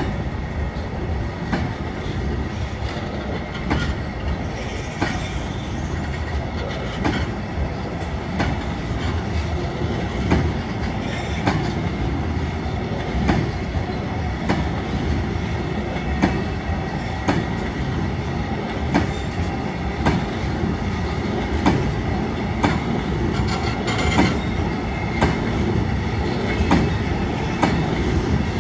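Freight train of loaded car-carrier wagons rolling past, with a steady rumble of wheels on rail and repeated sharp clacks, often in pairs, as the wheelsets cross the rail joints.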